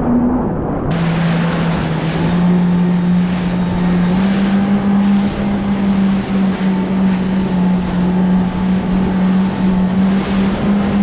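Jet ski engine running steadily at speed, its pitch stepping up slightly a couple of times, under a loud rush of wind and water.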